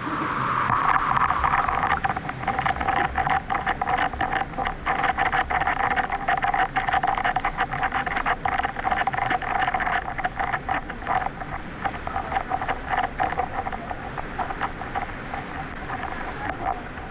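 Waterfall and river water rushing, a steady noisy rush dotted with many small splashes.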